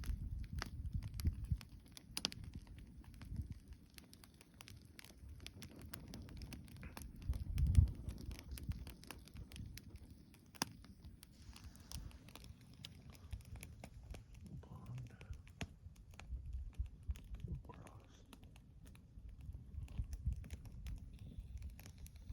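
Spruce campfire crackling, freshly fed with sticks and burning hard: irregular sharp snaps and pops over a low rumble of flames, with one louder thump about eight seconds in.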